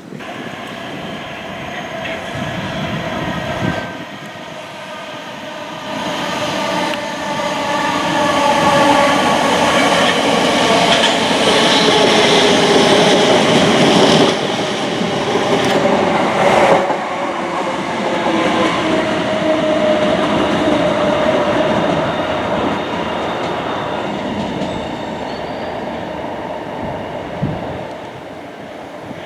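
A train passing on the line below, its wheels rumbling on the rails under a whine of several tones that slowly drop in pitch. It grows louder to a peak about halfway through, with two short sharp cracks about two-thirds of the way in, then fades a little near the end.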